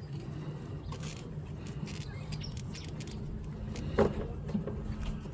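Scattered light clicks and taps of parts being handled under a car's hood after the serpentine belt has come off, with one sharper knock about four seconds in, over a steady low hum.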